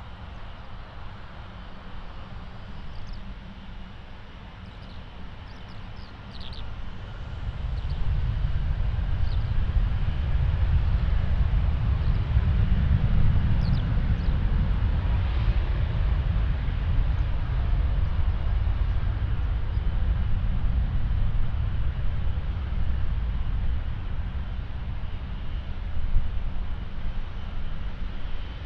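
Norwegian Boeing 737-800's CFM56 jet engines running at high thrust on departure: a deep rumble swells about eight seconds in, peaks a few seconds later, then stays loud.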